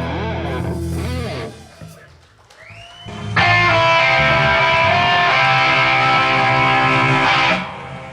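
Electric guitar playing sustained chords that fade out, then after a short quiet gap with a few sliding notes a loud held chord rings out until it is cut off near the end.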